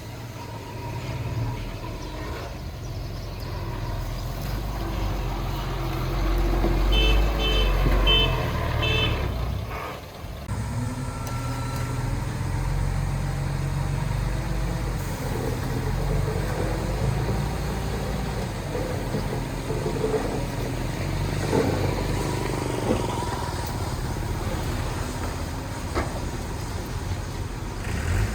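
Diesel engines of heavy earthmoving machinery running, the engine pitch rising and falling, with four short high beeps about seven seconds in.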